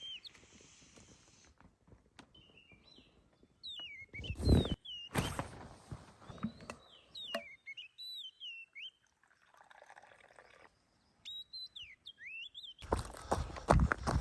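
A small bird chirping in short, rising and falling phrases. Two loud rustling noises come about four and a half and five seconds in, and dense rustling and crunching starts near the end.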